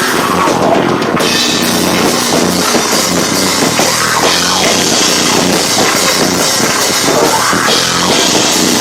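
A live rock band playing loud with a drum kit, sustained without a break, picked up by a camcorder microphone that distorts at the volume.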